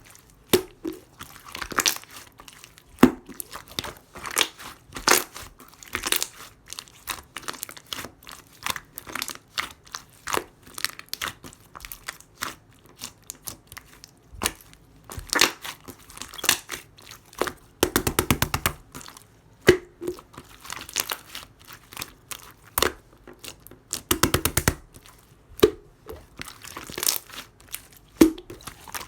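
Clear slime with a jelly-like texture being squished and pressed by hand, making sticky clicks and crackling pops throughout, with a few bursts of rapid crackling.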